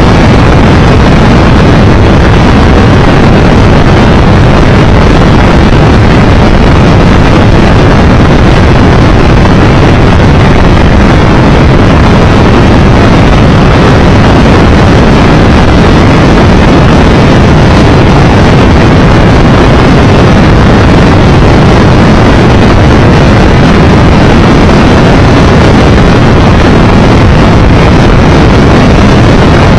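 Very loud, steady rush of wind and road noise on a motorcycle rider's camera microphone while riding at speed, with no engine note standing out.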